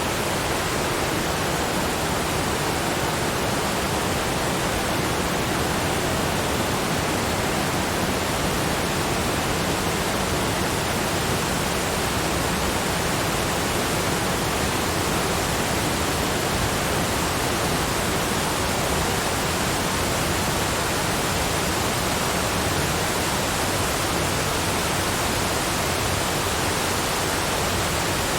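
Waterfall: falling water making a steady, even, unbroken noise.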